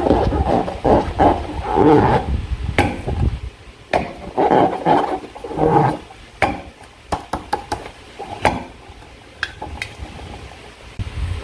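Slime being squished and stirred by hand: dense crackling and popping, loudest over the first two seconds and again around the middle, then fainter with scattered sharp clicks.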